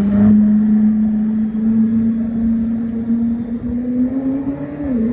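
Koenigsegg Jesko's twin-turbo V8 engine and exhaust holding a steady drone that rises slowly in pitch as the car gains speed, then drops sharply near the end as the revs fall.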